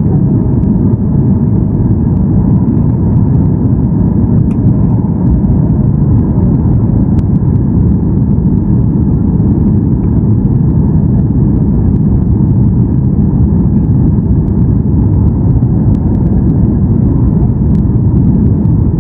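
Steady low rumble inside the cabin of a Boeing 737-800: engine and airflow noise heard from a window seat, without any clear change.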